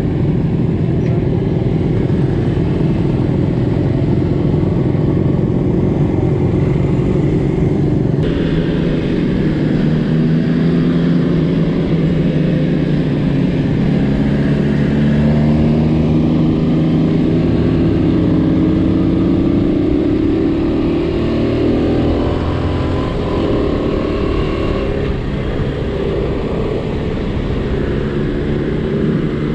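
Small vintage Honda motorcycle engine under way, with heavy wind rush over it. The engine note climbs steadily through the middle as the bike accelerates, then eases off toward the end.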